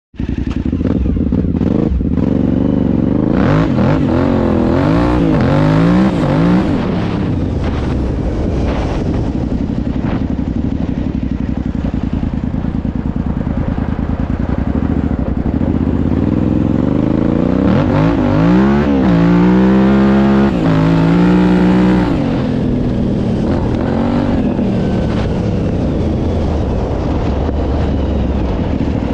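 Suzuki TL1000S 996 cc V-twin motorcycle engine in a homemade quad, running under load with the revs climbing and falling several times in the first few seconds and again about two-thirds of the way through, with steadier running in between.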